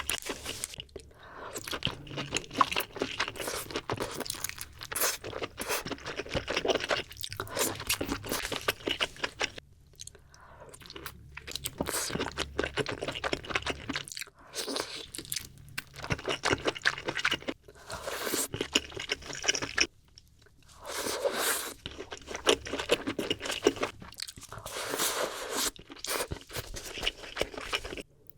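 Close-miked eating of seafood boil: crunchy chewing and biting, with crackling mouth sounds in stretches of a few seconds broken by brief pauses.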